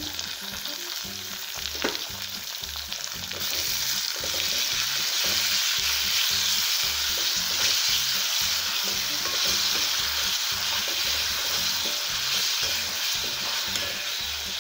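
Chopped tomatoes and onions sizzling in hot oil in a metal kadai while a steel spoon stirs and scrapes them against the pan. The sizzle grows louder about four seconds in, and there is one sharp clink of the spoon near the start.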